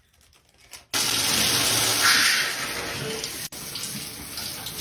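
Water running steadily, as from a tap, starting suddenly about a second in.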